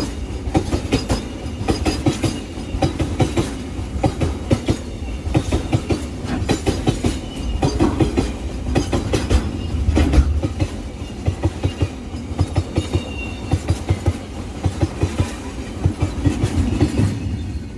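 Freight train wagons rolling past at close range, wheels clattering over the rail joints in a steady clickety-clack over a low rumble. The clatter drops away right at the end as the train clears.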